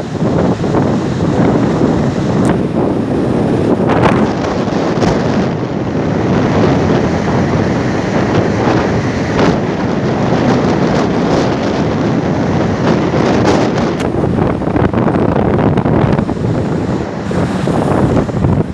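Strong wind buffeting the microphone over the rush of rough sea water around a boat under way, with a few sharp knocks.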